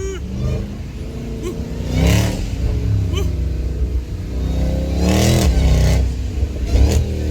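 Supercharged Hemi V8 of a Dodge Charger Hellcat Redeye Jailbreak with a loud aftermarket exhaust, accelerating with revs rising and falling. It surges loudest about two seconds in and again about five seconds in.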